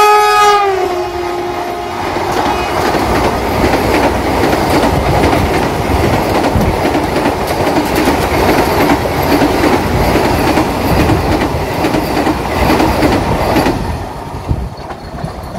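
A passing train's horn sounds a loud multi-tone chord whose pitch drops as the locomotive goes by, and it stops about two seconds in. Then comes the steady rumble and clatter of the coaches' wheels running past at speed, easing off near the end.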